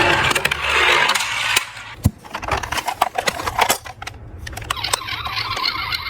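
Diecast toy cars clicking and clattering against each other and the slope: a rushing noise that stops about a second and a half in, then a scatter of sharp metallic clicks.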